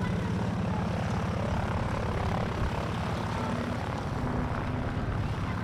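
Curtiss P-36C's Pratt & Whitney R-1830 Twin Wasp radial engine and propeller running steadily with a low, rapidly pulsing drone.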